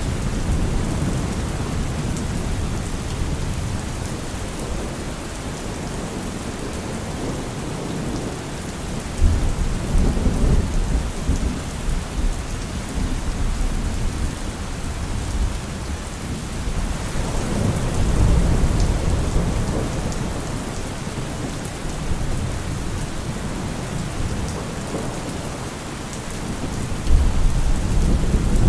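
Steady rain falling with rolling thunder, the low rumbles swelling and fading several times.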